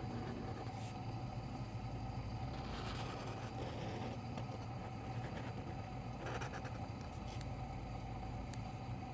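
Steady low electrical hum, with a few short scratches of a pen drawing on paper, the clearest about three seconds and six seconds in.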